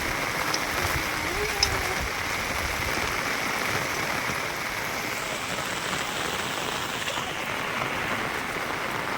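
Steady rain falling, an even hiss, with one small click about a second and a half in.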